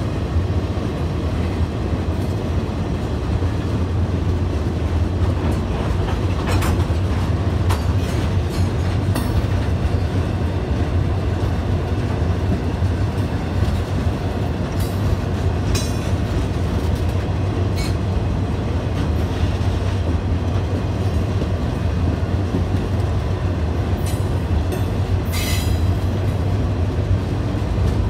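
Freight train cars rolling past on the rails: a steady low rumble with scattered clicks and clanks, and a brief sharper sound about three quarters of the way through.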